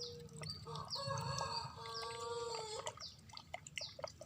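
A rooster crowing once, one long call of about two seconds starting near the first second, over small birds chirping repeatedly.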